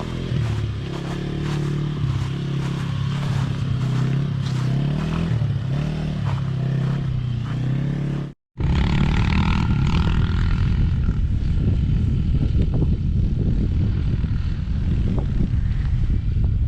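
Small single-cylinder four-stroke engine of a youth off-road bike running under changing throttle, its note wavering up and down. After an abrupt cut about eight seconds in, a rougher low rumble follows, with wind buffeting the microphone.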